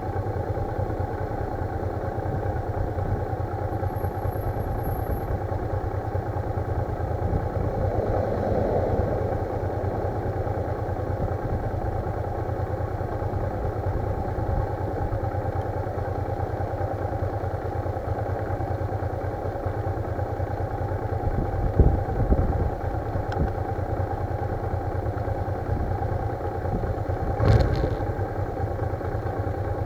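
Loud wind noise buffeting the microphone of a camera mounted on a motorcycle being ridden, with the bike's running and road noise underneath. Two brief knocks stand out in the second half.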